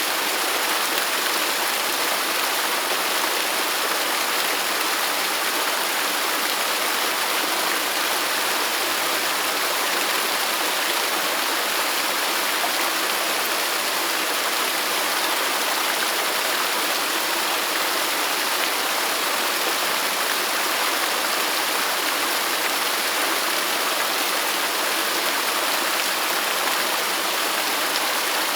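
Waterfall: falling water rushing in a steady, unbroken hiss, with almost no low rumble.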